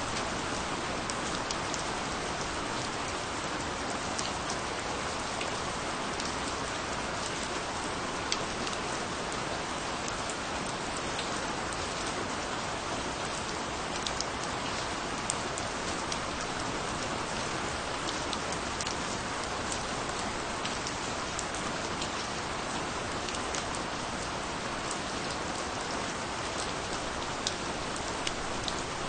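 Steady rain falling on a surface, an even hiss with scattered individual drops ticking sharply through it.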